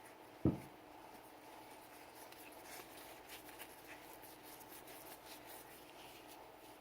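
Sig Sauer P320 pistol parts being handled and cleaned: one soft knock about half a second in, then faint light scratching and rubbing.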